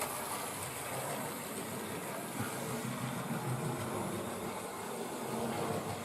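Model railway locomotive running steadily along the track with a Hornby track-cleaner wagon: a steady whir of the small electric motor and wheels running on the rails.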